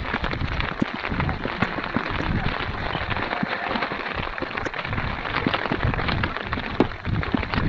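Heavy rain falling, with many close drops pattering in quick irregular ticks, and wind gusting over the microphone.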